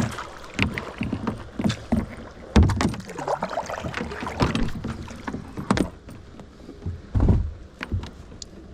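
Water splashing and irregular knocks against a kayak as someone rummages in the shallows, with two louder thumps, one about two and a half seconds in and one about seven seconds in.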